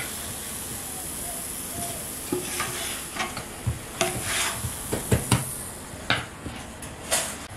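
Food sizzling in a pan with a steady hiss, joined from about two seconds in by a run of sharp clicks and knocks of a utensil against the cookware.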